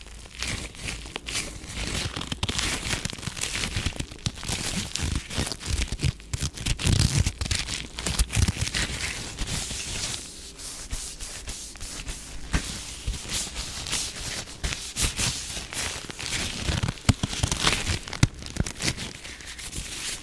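ASMR hand sounds close to the microphone: a dense, crackly rustling of skin with many quick clicks.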